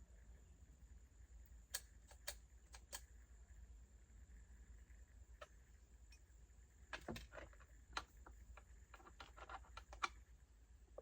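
Scattered light clicks and taps from a wrench and chainsaw parts being handled during assembly, over near silence with a faint low hum.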